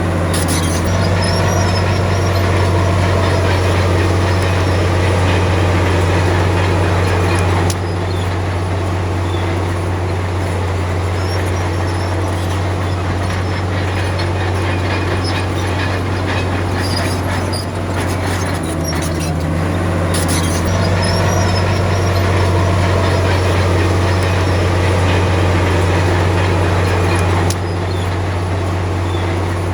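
Komatsu D53P crawler bulldozer's diesel engine working steadily under load, with scattered metallic clanks from the tracks. The engine note drops abruptly about eight seconds in and again near the end, and builds back up around twenty seconds in.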